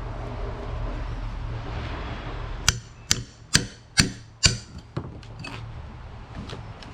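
Hammer blows into a log to dig out a buried nail that the metal detector found: five sharp strikes about two a second, then a few lighter taps.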